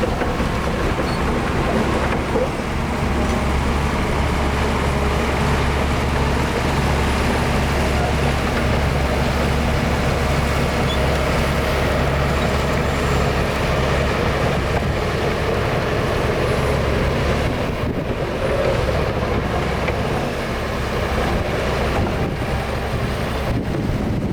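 Heavy diesel engine of earthmoving machinery running steadily, its note easing off about three-quarters of the way through.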